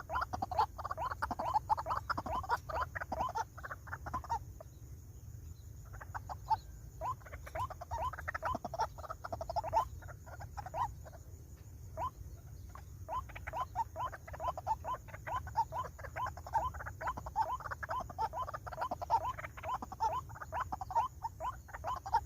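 Rapid run of repeated croaking calls of a rail such as the white-breasted waterhen, used as a lure call, in long bouts that break off at about four seconds in and again around ten to thirteen seconds in, over a steady low hum.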